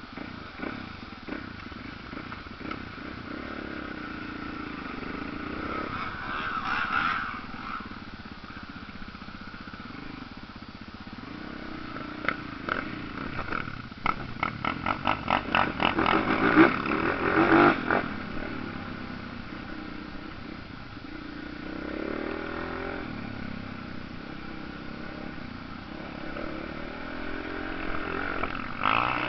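Motocross bike engines revving and riding past, their pitch rising and falling as riders work the throttle. A bike passes loudest about halfway through with a quick series of throttle blips.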